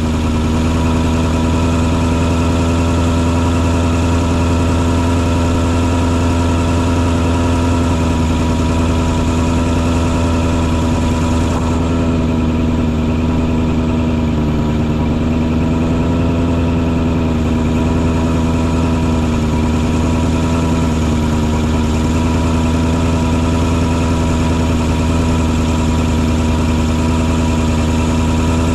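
Engine on a mosquito-fogging truck running at a steady, constant speed, a continuous low drone with only a slight waver in pitch partway through.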